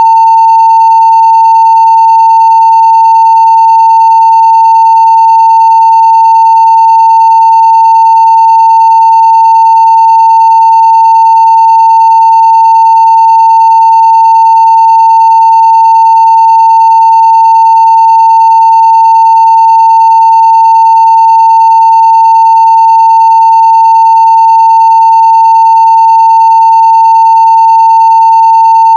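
Steady 900 Hz sine-wave test tone at full-scale (0 dB) level, one unbroken pitch throughout, with faint higher overtones.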